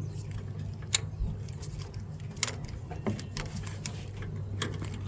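Scattered metallic clinks and taps from a socket wrench and hand tools working on alternator bracket bolts, a few separate strikes over a steady low hum.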